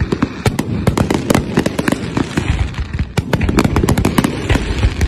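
Fireworks going off in a dense, irregular barrage of overlapping bangs and crackles.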